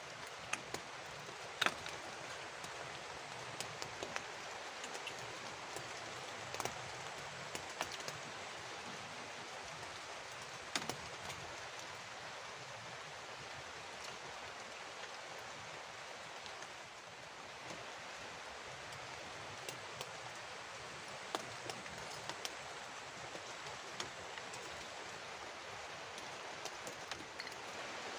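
Steady hiss of falling and running water from rain and a small stream, with scattered sharp ticks and taps.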